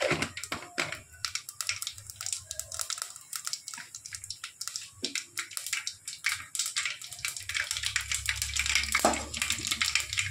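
Cumin seeds crackling and sizzling in hot oil: a dense run of small pops that grows busier toward the end, as the oil comes up to tempering heat.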